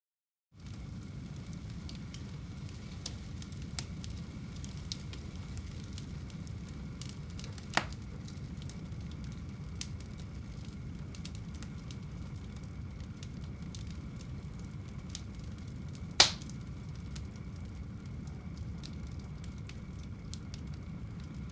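Wood fire burning in a fireplace: a steady low rumble of flame with scattered small crackles and two sharp pops, one about a third of the way in and a louder one about three-quarters of the way in. The sound cuts in after about half a second of silence.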